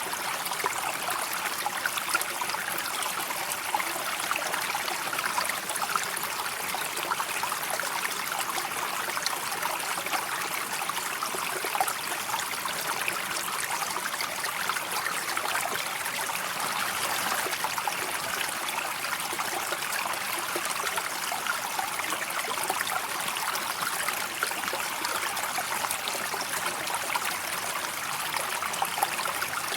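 Steady flowing river water trickling and babbling, an even rushing hiss with many small splashy ticks.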